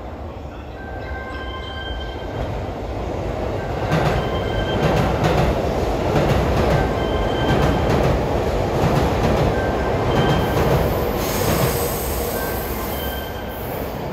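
A train running through an elevated concrete station: rumble and clatter build over the first few seconds and stay loud through the middle, then ease off. Toward the end comes a high squeal of wheels on the curve.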